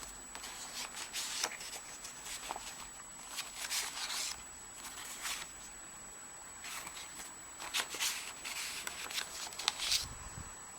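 Paper and card rustling and rubbing as handmade journal pages and paper tags are handled and turned, a run of short, irregular rustles.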